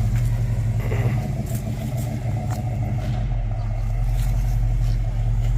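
Car engine idling at a steady, even speed, a low, unbroken hum.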